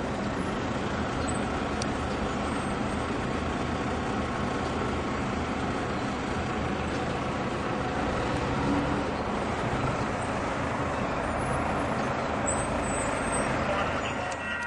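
Altamont Corridor Express commuter train passing: a steady rumble of the diesel locomotive and the rolling coaches.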